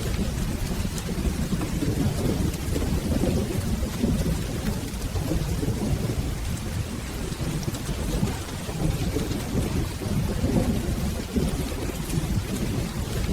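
Steady rain with a continuous low rumble of rolling thunder, surging and easing without any single sharp clap.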